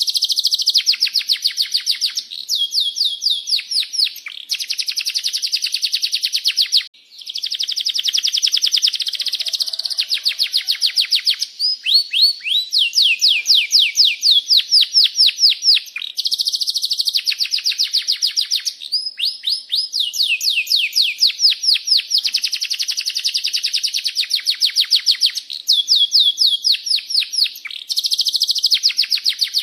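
Domestic canary singing a long, unbroken song of rapid trills and rolling chirps, pausing briefly about seven seconds in.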